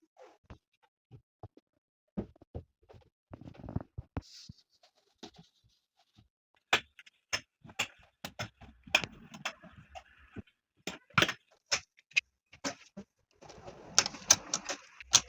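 Household things being handled during cleaning: scattered clicks and knocks of objects picked up and set down, with stretches of rubbing and scraping as surfaces are wiped.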